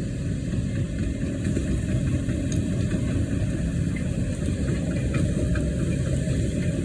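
An engine idling steadily, an even low rumble with faint scattered ticks above it.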